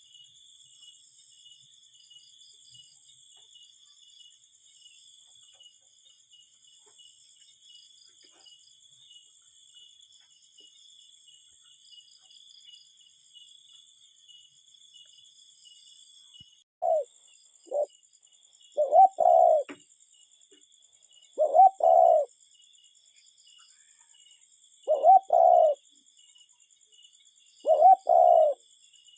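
A cuckoo calling its two-note "cuck-oo", repeated about every three seconds and starting a little past halfway through. Crickets trill steadily and high in the background throughout.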